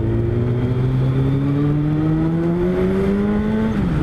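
Suzuki Hayabusa's inline-four engine accelerating under throttle, its pitch climbing steadily, then dropping sharply near the end as the rider shifts up a gear.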